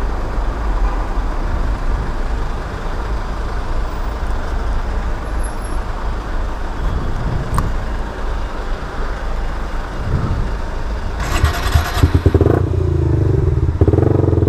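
Suzuki GSX-R125 single-cylinder engine running as the motorcycle moves slowly, with a rushing noise over it. About eleven seconds in there is a short burst of noise, then the engine settles into a steady, pulsing idle.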